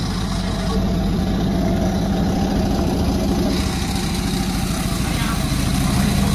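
Panda36 two-stroke chainsaw running steadily at high revs while sawing a jackfruit log.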